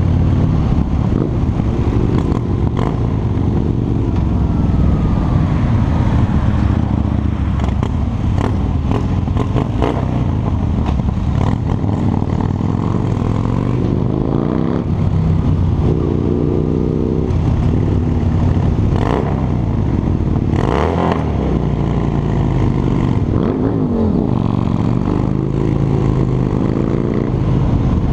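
Harley-Davidson motorcycle's V-twin engine and exhaust running on the move, the revs rising and falling several times as the bike pulls and shifts, over steady road and wind noise with scattered light clatter.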